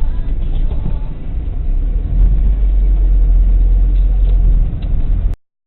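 Steady low rumble of a vehicle's engine and road noise as picked up inside the moving vehicle, cutting off suddenly about five seconds in.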